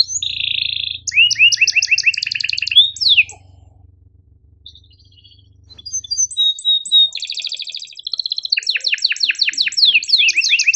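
Domestic canary singing: fast trills of rapidly repeated notes and quick falling whistles, breaking off for about two seconds in the middle before the song resumes.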